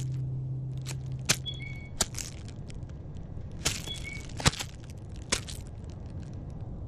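Forest-floor field sound: scattered sharp crackles and snaps, like dry leaves and twigs being stepped on or scratched. Twice a bird gives a short, high two-note call that steps down in pitch.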